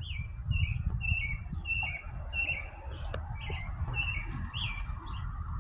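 A songbird chirping over and over, short chirps that slide downward in pitch, about two a second, over a steady low rumble.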